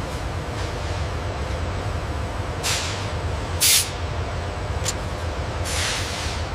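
Steady low machine rumble with four short bursts of hiss, like air or spray, about a second apart; the loudest comes a little under four seconds in.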